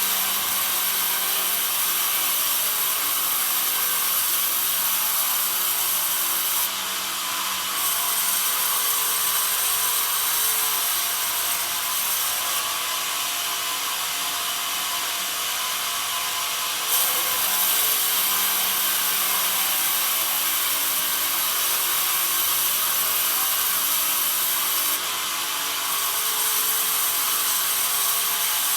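Bandsaw mill blade cutting through pine: a steady, high-pitched sawing noise that eases off briefly a few times.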